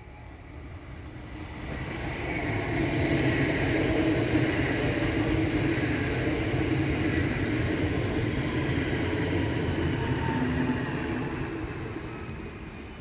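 A train passing close by: the rumble of wheels on rails swells over a couple of seconds, stays loud, then fades near the end, with faint tones sliding down in pitch as it goes by.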